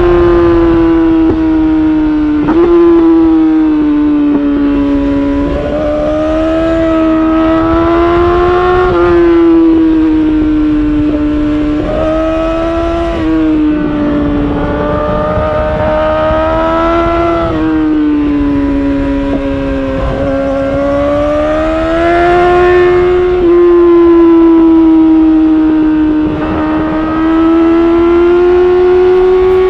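Yamaha R6 inline-four sportbike engine at high revs through an Akrapovic titanium exhaust, its pitch rising and falling as the rider works the throttle, with abrupt pitch jumps at gear changes every few seconds. A steady low rumble of wind and road runs underneath.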